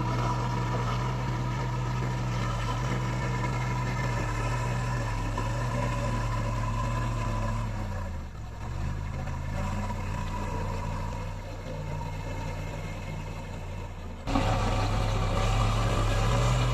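Diesel engine of heavy road-building machinery running steadily; its pitch dips and picks up again about eight seconds in. About fourteen seconds in the sound jumps suddenly louder.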